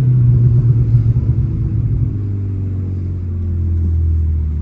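BMW 330i's turbocharged B48 2.0-litre four-cylinder engine running with the revs held up for about two seconds, the note rough and uneven. It then eases off, and the pitch slowly falls as the car coasts off the throttle.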